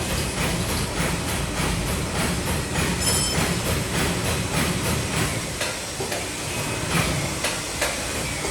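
Paper lid making machine running, a steady mechanical clatter with rhythmic knocks about twice a second.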